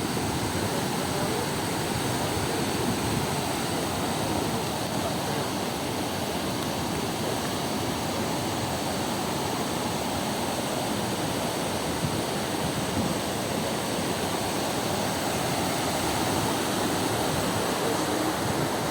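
Waterfall crashing down a rock face: a steady, loud rush of falling water.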